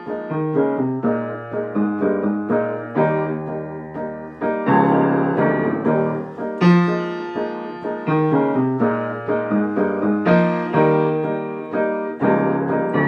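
Piano played alone in an instrumental passage of a pop-jazz song: rhythmic struck chords that ring and decay, with no voice.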